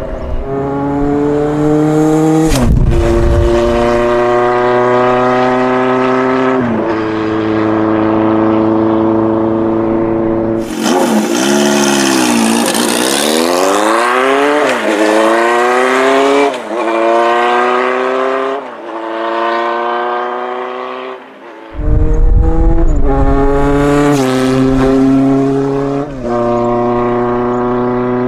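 Vintage motorcycle engine running loudly, its pitch holding steady and then shifting as the throttle changes, with a stretch of revving that falls and rises again in pitch.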